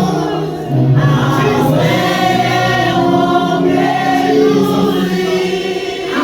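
A group of voices singing a church hymn together, holding long notes.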